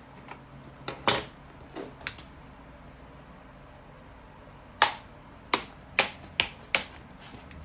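A series of sharp, short clicks, about ten of them at uneven intervals: a few in the first two seconds, then a quick run of five from about five seconds in.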